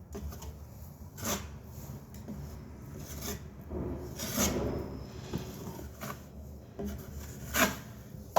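Metal putty knife scraping and smoothing joint compound over paper tape on drywall: several separate scraping strokes, a few with a sharp tap or click.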